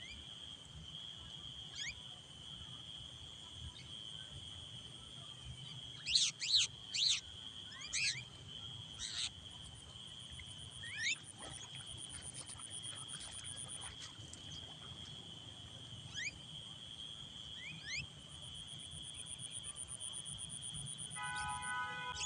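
Starlings calling over rice paddies: scattered short rising call notes, with a cluster of loud harsh calls about six to nine seconds in, over a steady high-pitched hum. A set of steady tones comes in near the end.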